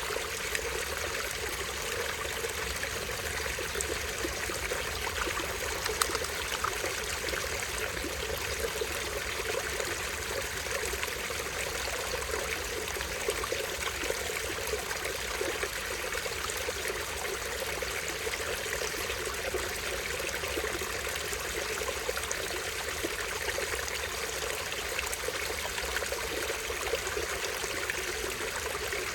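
Stream water running and trickling steadily over a small fall, with one brief louder splash about six seconds in.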